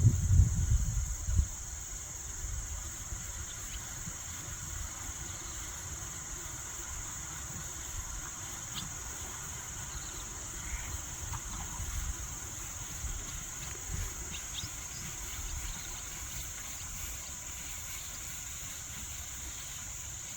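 Steady high-pitched drone of an insect chorus in summer pasture grass, with wind buffeting the microphone in the first second or so.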